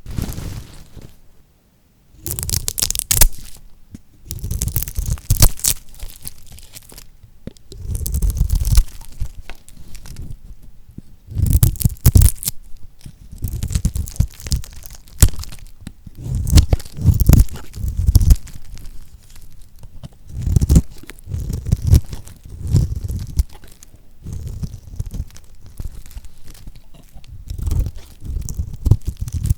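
A knife cutting through bars of lacquered soap, the hard coating crunching and cracking with each slice. There is a crunchy cut every two seconds or so, after a brief silence near the start.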